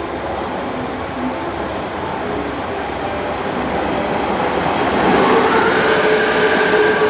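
JR Kyushu 817 series electric train running on the track, its rumble growing louder, with a steady two-note whine coming in about five seconds in.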